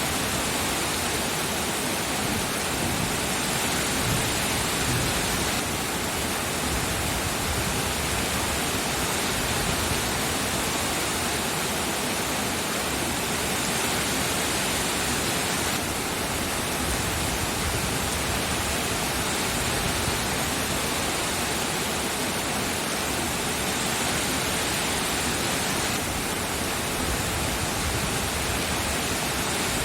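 Steady, heavy rainfall: a dense, even hiss of rain with no distinct drops standing out.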